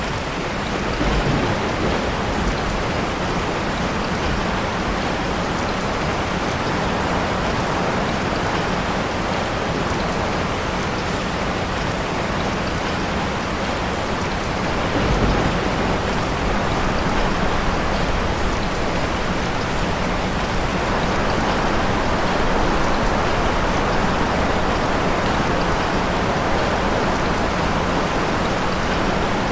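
Steady rain falling, with low rumbles of thunder about a second in and again about fifteen seconds in.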